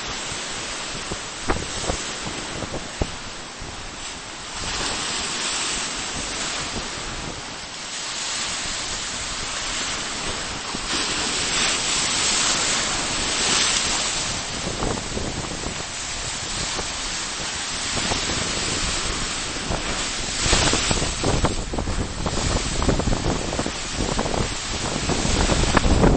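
Sea surf breaking and washing on a beach in a strong wind, with wind buffeting the microphone, the buffeting growing stronger near the end.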